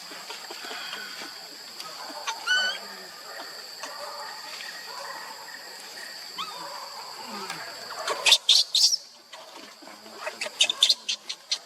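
Monkey calls: a short pitched squeak about two seconds in, then loud shrill squeals in quick runs in the second half, over a steady high-pitched hum.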